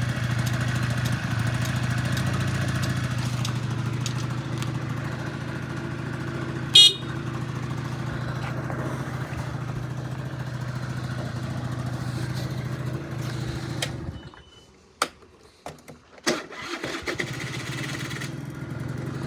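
Honda Dio AF34 scooter's small two-stroke engine running steadily, with a brief loud high-pitched blip about seven seconds in. The engine sound drops away about fourteen seconds in, a few clicks follow, and it runs again about two seconds later.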